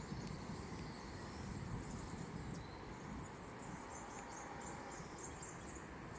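Faint insects chirping in short, high-pitched pulses over a low steady rumble of wind or outdoor background noise.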